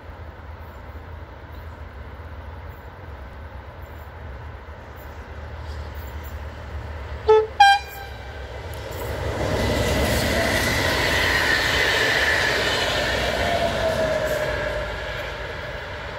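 An electric-locomotive-hauled passenger train gives two short horn toots, then passes close by. Its rolling noise swells and fades, with a whine that drops slightly in pitch as it goes past.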